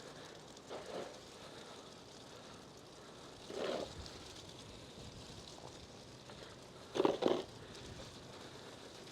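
Bicycle being ridden slowly through snow: a steady hiss of tyre and riding noise, with three short louder sounds about a second in, near the middle and near the end, the last in two quick parts.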